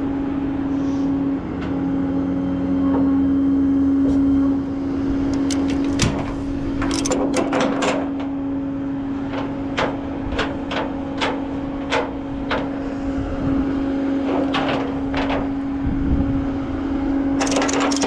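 A steady motor hum runs throughout, overlaid with bursts of sharp clicks and clanks, most dense about a third of the way in and again near the end.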